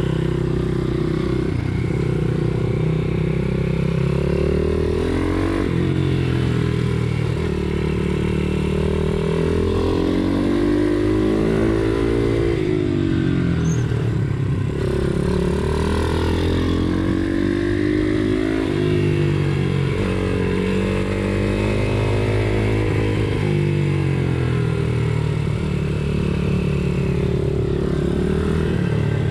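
Pit bike's single-cylinder engine revving hard while being ridden, its pitch climbing and dropping every few seconds with throttle and gear changes.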